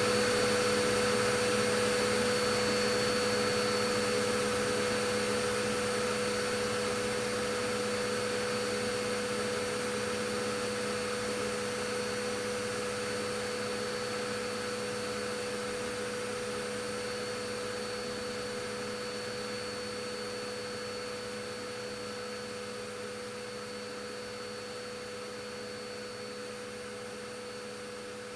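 Vacuum cleaner running steadily: a constant whine over the rush of its air, slowly fading quieter.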